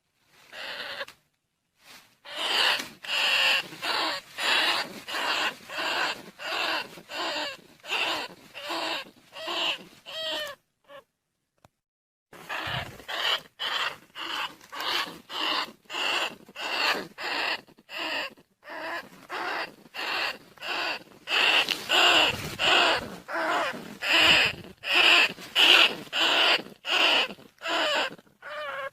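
Rat decoy call: short squealing rat calls repeated about twice a second, played to lure rice-field rats and bandicoot rats. There is a pause of about two seconds near the middle.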